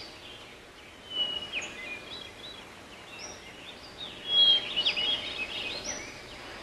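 Small birds chirping: many short, high calls over a faint steady background hiss, busiest and loudest about four to five seconds in.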